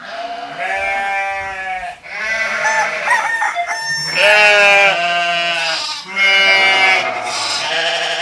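Four long animal calls one after another, each about two seconds, dropping in pitch at the end, used as a comedy sound effect.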